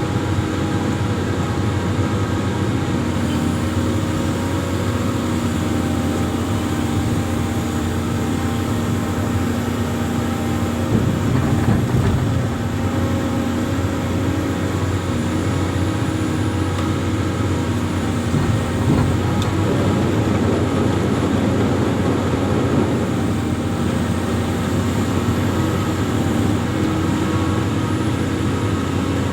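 Amphibious excavator's diesel engine running steadily, its pitch and level shifting a little every few seconds as the load changes.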